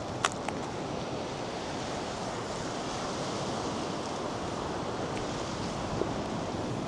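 North Sea surf washing onto a sandy beach in a steady rush, with a single sharp click just after the start.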